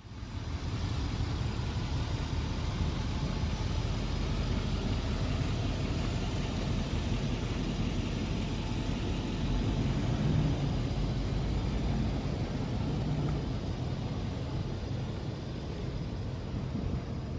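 6.6L Duramax turbo-diesel V8 of a Chevrolet Silverado 5500HD box truck running steadily.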